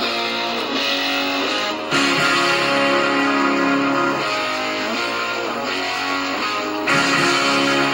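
Guitar music played through a pair of small USB-powered stereo speakers as a test of them, starting abruptly just before and running at a steady level.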